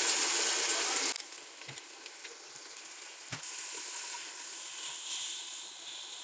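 Marinated chicken sizzling in hot oil and fried onions in an aluminium pot. The sizzle is loud for about the first second, then drops suddenly to a softer steady sizzle, with a couple of light knocks.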